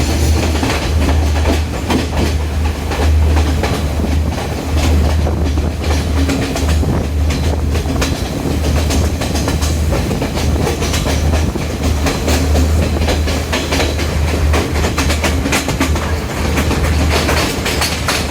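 Intercity express train coach running along the track: a steady low rumble with rapid, irregular clicking and knocking of the wheels and running gear over the rails.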